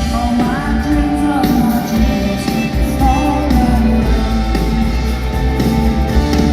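Live rock band playing in concert, with a singing voice over a steady bass and drums.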